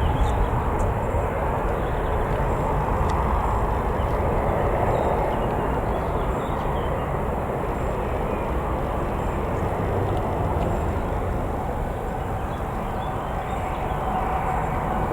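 Jet airliner engine noise: a steady, broad rumble without distinct tones that eases slightly and then builds again near the end.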